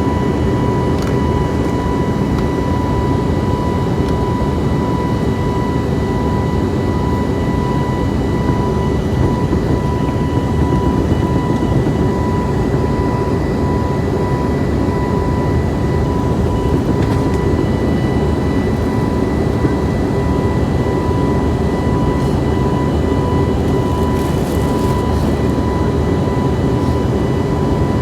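Steady cabin noise inside a jet airliner in flight: a constant low rush of engines and airflow with a steady high whine over it.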